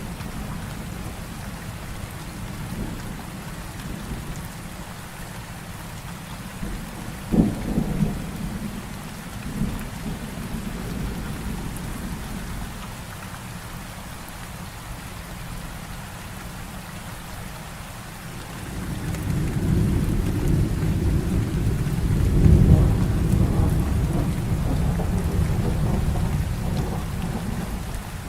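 Heavy rain falling steadily, with a sharp thunderclap about a quarter of the way in and a long, loud rolling rumble of thunder swelling over the last third.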